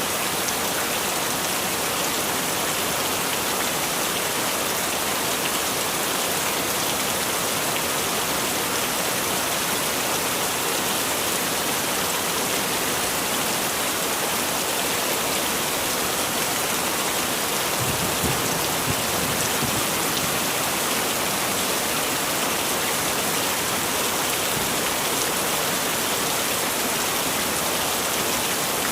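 Heavy rain falling steadily, a dense, even hiss of drops with no pause.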